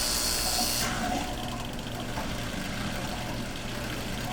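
Frigidaire dishwasher's pump running with a steady hum as it drains dirty wash water into a bucket; the rush of water cuts off about a second in, leaving the pump hum.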